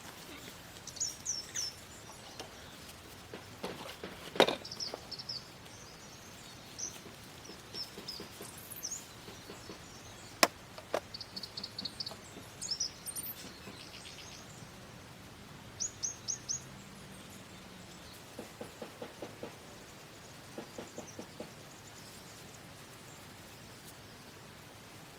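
Small birds chirping in short, quick runs of high calls against a quiet outdoor background. Two sharp clicks or knocks stand out, about four and ten seconds in.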